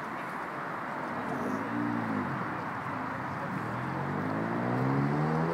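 Ford Sierra Cosworth's turbocharged four-cylinder engine blipped once about two seconds in, its pitch rising and dropping back, then revving up steadily over the last two seconds, over steady background noise.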